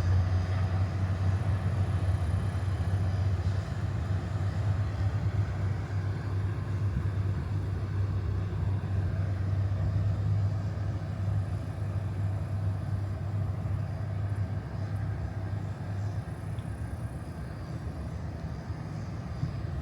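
An engine running with a steady, deep low drone under an even background rush; the drone eases slightly near the end.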